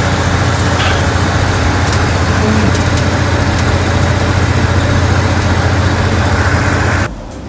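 Heavy diesel machinery, such as a working bulldozer, running loudly with a steady deep rumble, cutting off abruptly near the end.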